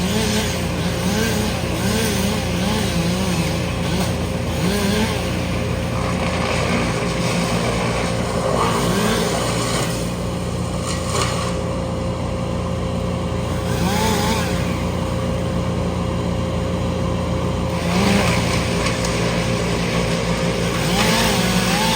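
Large engine running steadily, a low, even drone with a faint wavering tone over it.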